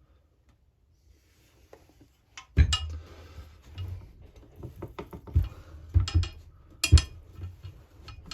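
Metal knocks and clinks from a Husqvarna 346XP chainsaw's crankcase halves being worked apart and handled on the bench. A short quiet spell, then a run of sharp knocks, several of them loud.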